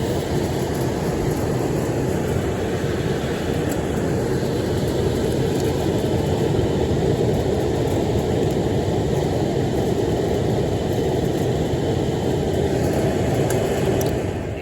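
Amana 90% gas furnace running with a steady, even rushing of fan and air after its call for heat has been jumped out; the unit shows a three-flash code that the technician takes for a pressure switch fault.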